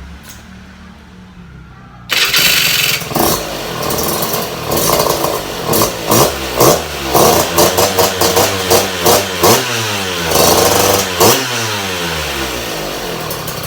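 Two-stroke Kawasaki Ninja 150 motorcycle engine running, low and steady at first, then loud from about two seconds in. Through the middle it is revved in a string of quick throttle blips, the pitch rising and falling with each.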